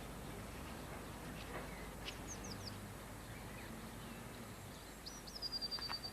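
Faint outdoor garden ambience with a small bird calling: a few short, high chirps about two seconds in and a run of high, thin notes near the end.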